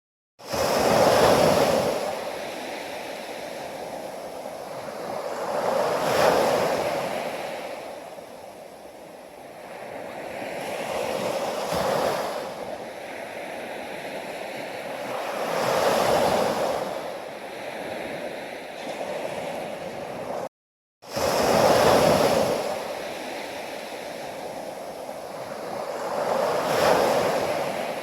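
Sea waves breaking on a shore: the surf swells up and washes back about every five seconds. Twice the sound drops out for about half a second.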